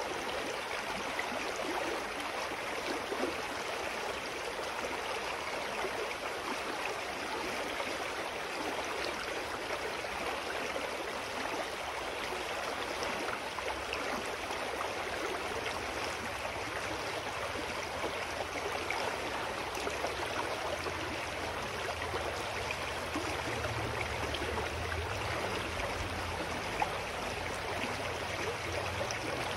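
Clear forest stream flowing steadily, an even rush of water with no breaks. A faint low rumble builds underneath in the second half.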